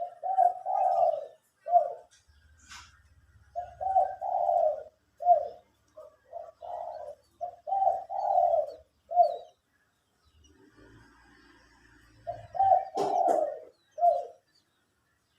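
Doves cooing in repeated phrases of several short notes, a phrase every second or two, with a short sharp knock near the end.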